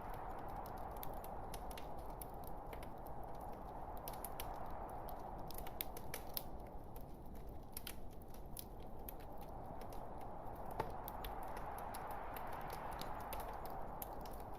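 Wood fire burning in a fireplace: a steady hiss with frequent sharp crackles and pops from the burning logs, thickest around the middle, and one sharper pop near the end.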